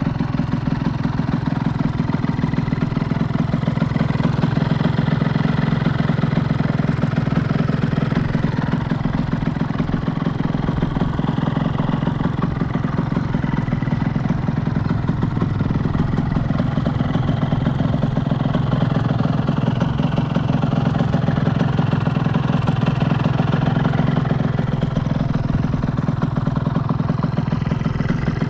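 Tomos A35 moped's 80cc two-stroke Minarelli AM6 engine with a custom Kreidler exhaust, running steadily at an even pitch.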